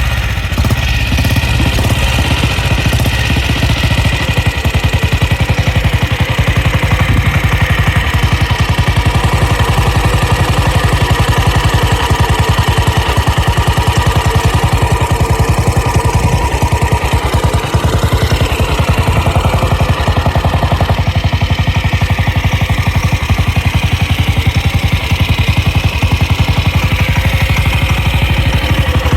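1948 Velocette MAC's 350cc single-cylinder four-stroke engine idling steadily with an even, rapid firing beat.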